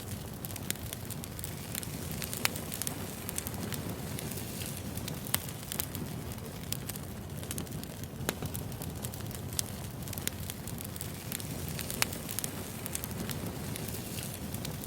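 Wood fire crackling: a steady low rumble of burning logs with frequent irregular snaps and pops, a few of them sharper and louder.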